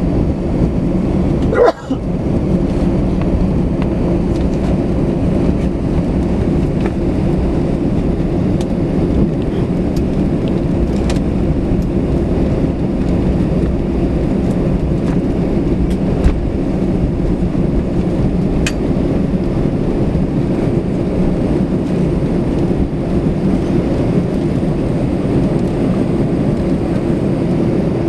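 Airbus A320 cabin noise during taxi: the engines running at idle under a steady low rumble with a hum. A short knock about two seconds in.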